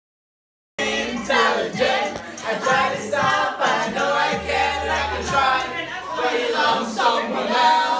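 Dead silence, then about a second in voices start singing a cappella, like a small choir.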